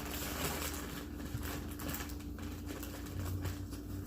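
Strong snowstorm wind blowing in gusts, with a dense crackling patter over a deep rumble.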